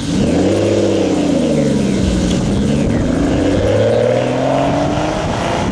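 Aston Martin V12 accelerating away. The revs rise quickly, ease back, then climb again toward the end.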